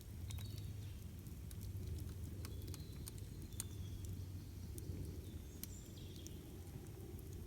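Campfire crackling, with many sharp irregular pops and snaps over a steady low rumble. A few faint, short high chirps come through now and then.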